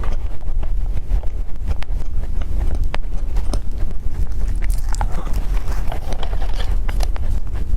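Close-miked eating: chewing with scattered sharp wet mouth clicks and lip smacks, a few every couple of seconds, over a steady low rumble.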